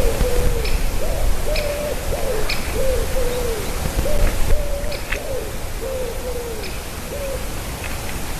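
A bird calling repeatedly: a quick run of short, mid-pitched whistled notes, about one or two a second, several sliding down at the end, over a steady hiss.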